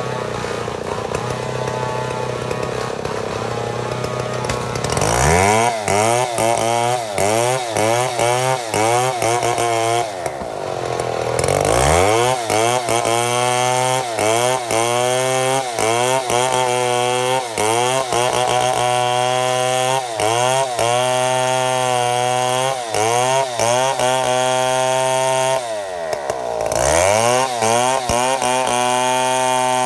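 Chainsaw ripping a mahogany log lengthwise into boards. It runs at lower revs for the first few seconds, then revs up about five seconds in and holds high revs, its pitch wavering under the load of the cut. The revs sag and climb back about ten seconds in and once more near the end.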